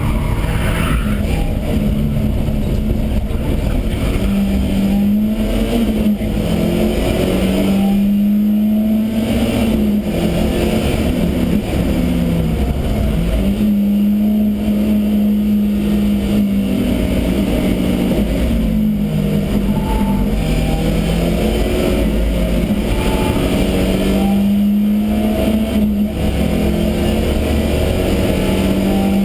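BMW E30 318is race car's 1.8-litre four-cylinder engine under hard acceleration, heard inside the stripped cabin: its pitch climbs through each gear and drops at each gearshift, over and over through the lap, with steady road and drivetrain rumble beneath.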